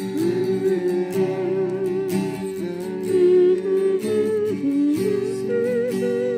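Acoustic guitar strummed while a voice carries a wavering melody over it, a hymn tune sung or hummed without clear words.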